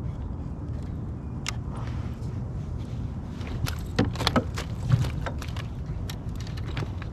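Scattered clicks and knocks of gear being handled on a fishing kayak, clustered about four to five seconds in, over a steady low rumble.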